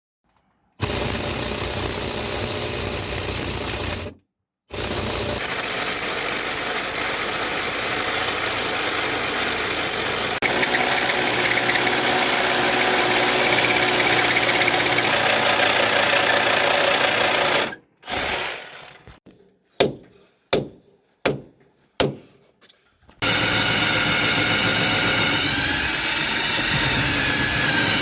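Loud, steady machine noise like a motor or power tool running. It is cut off abruptly twice, and in the middle comes a run of five or six short bursts, each starting sharply and fading, before steady running resumes.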